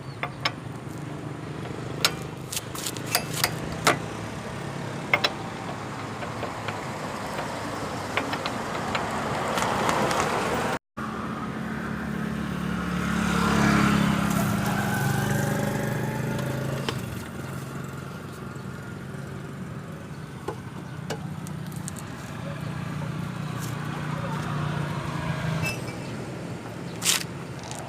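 A car's engine running steadily, with scattered sharp knocks and clicks over it. About halfway through there is a brief dropout, and then a louder swell of vehicle noise that rises and fades.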